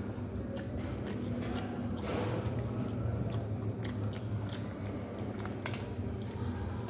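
A person chewing and biting into goat head meat close to the microphone: irregular crunches and mouth clicks, over a steady low hum.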